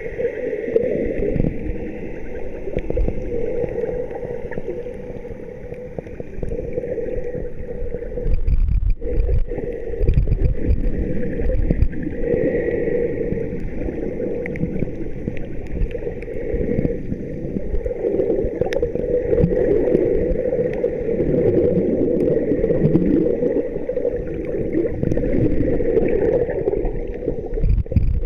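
Water sloshing and gurgling, steady and muffled throughout, with a few deep rumbles.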